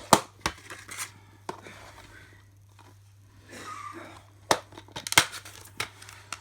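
Plastic DVD case being handled and opened: a series of sharp clicks and snaps, with a softer rustling a little past the middle.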